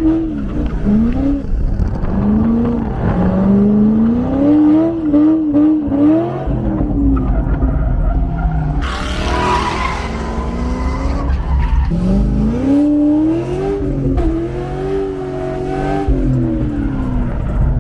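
Corvette engine revving up and falling back again and again while drifting, with tyres squealing and skidding. A louder hiss of tyre noise comes about nine seconds in.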